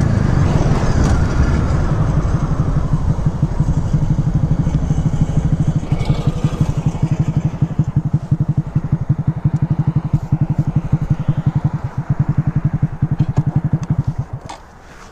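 Motorcycle engine coming off speed and dropping to a low chugging idle, its separate exhaust pulses spaced out evenly, then cutting off near the end, followed by a few light clicks.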